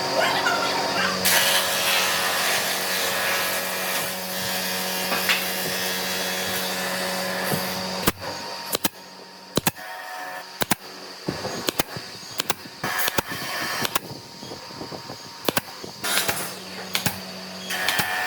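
A small electric power tool's motor running steadily, stopping about eight seconds in; then a string of sharp, irregular knocks and clicks of wood or tools being handled, with the motor hum starting again near the end.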